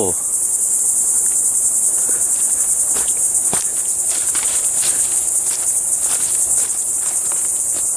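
Dense chorus of insects, crickets or similar, making a steady high-pitched buzz. A few faint clicks are scattered through it.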